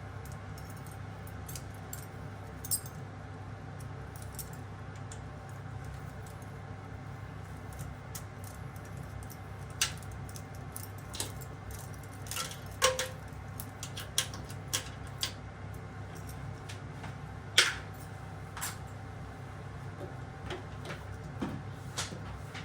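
Scattered metallic clicks and clinks of tools and fittings being handled during kitchen faucet replacement work, the loudest about halfway through and again a few seconds later, over a steady low hum.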